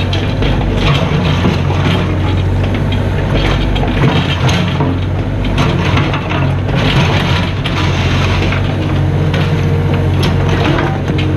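Mini excavator's diesel engine running steadily under load, with irregular scraping and crunching from the bucket working into the ground.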